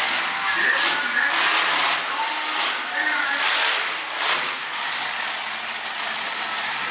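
A monster truck's engine running loud, with repeated surges of throttle.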